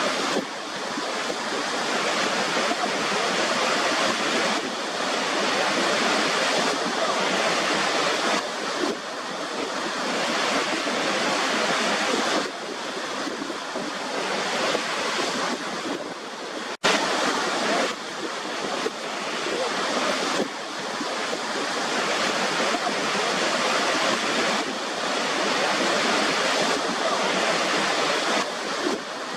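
Rushing water of a waterfall: a dense, steady roar that swells and eases every few seconds, with a momentary dropout about seventeen seconds in.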